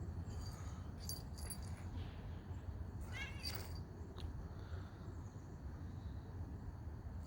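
A cat gives a brief meow about three seconds in, over a steady low rumble.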